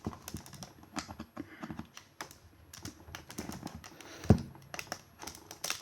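Irregular light plastic clicks and taps from an external hard drive's plastic casing being handled and pried at, with one louder knock about four seconds in.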